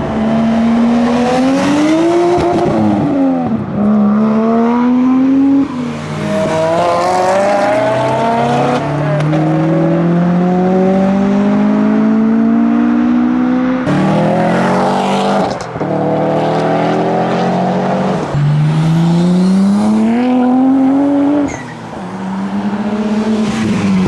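Modified cars accelerating away one after another, engine and exhaust note climbing in pitch, dropping at each gear change, then climbing again. Several such pulls run on in turn.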